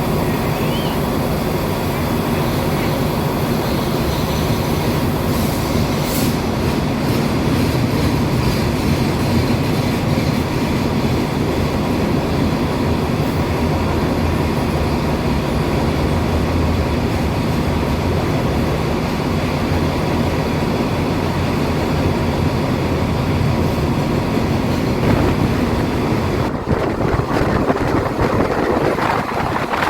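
A train running on the rails close by: a steady, loud noise of wheels on track with a low engine hum underneath.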